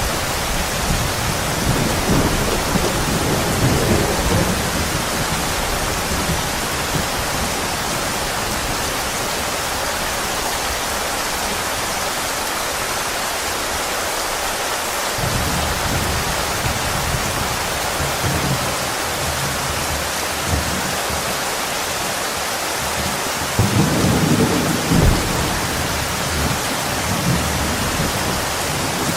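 Steady heavy rain hissing, with low rumbles of thunder in the first few seconds and again near the end.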